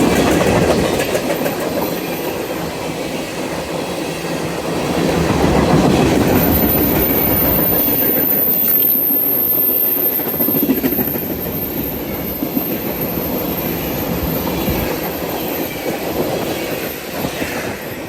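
Train cars rolling past with a steady rumble and clickety-clack of wheels on the rails, and a thin high wheel squeal from about a third of the way in.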